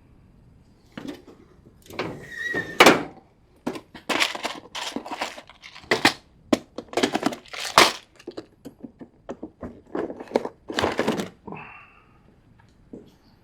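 Irregular knocks, clatters and rustling of tools and objects being handled and moved around, many short hits in quick, uneven succession that stop shortly before the end.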